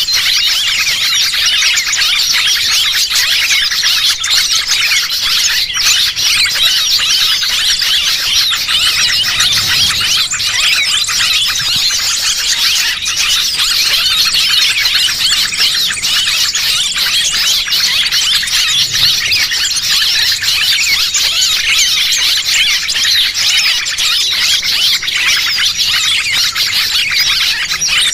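A dense, unbroken chorus of many small birds' shrill chirps and squeaky calls, played as a lure call to draw small birds in.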